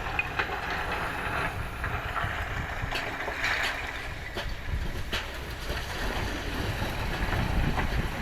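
Kobelco excavator running steadily with a low rumble, with a few sharp knocks in the middle.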